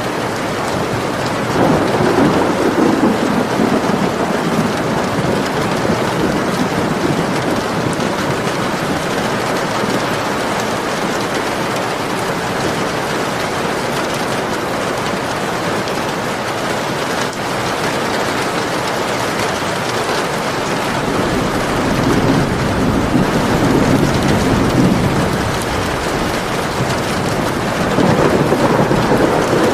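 Steady rain falling, with low rolling rumbles of thunder swelling about two seconds in, again past the twenty-second mark and near the end.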